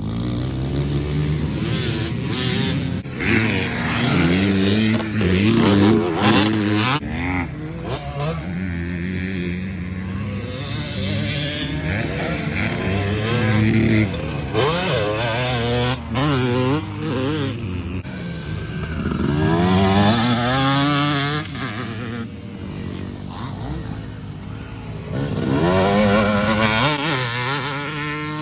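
Dirt bike engine being ridden hard, revving up and falling off again and again as the throttle opens and closes and the gears change.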